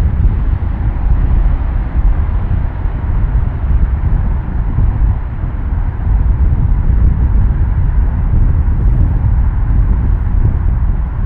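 BAe 146-300's four turbofan engines at take-off power, a loud, steady, deep rumble with no clear whine.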